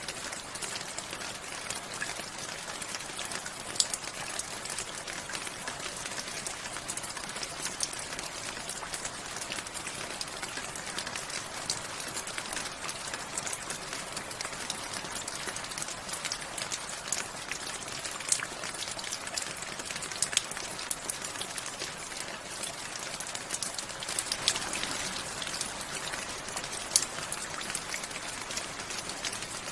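Steady rainfall, with many sharp ticks of single drops striking a hard surface scattered through it.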